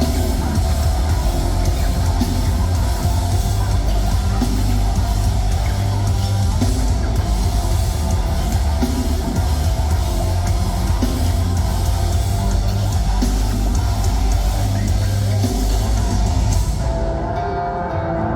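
Live rock band playing loud, with distorted electric guitar, a heavy bass end and a drum kit with crashing cymbals. Near the end the cymbals drop out and the sound thins briefly.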